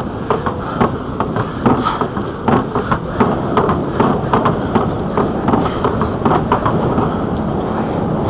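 A bicycle rolling along a trail, with irregular rattling knocks from the bike and the camera over bumps and wind rumbling on the microphone.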